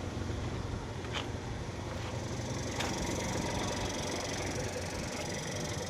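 Steady outdoor background noise with a low hum, likely a truck engine running at a distance, and a few faint ticks about one and three seconds in.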